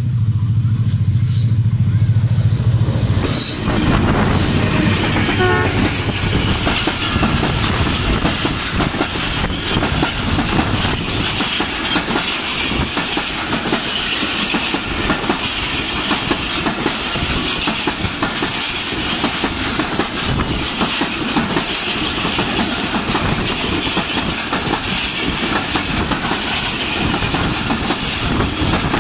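Diesel locomotive sounding a steady horn for about the first three seconds as it approaches, then rushing past close by. Its passenger coaches follow, running past in a steady loud rumble with a continuous clickety-clack of wheels over the rail joints.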